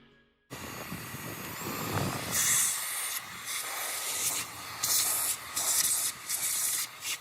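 Cordless stick vacuum cleaner running, a steady airy hiss that grows louder and drops back several times.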